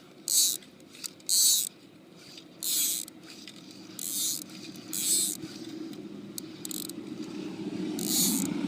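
Fly line zipping through a fly rod's guides in about six short hissing strokes at uneven intervals, with a low drone swelling near the end.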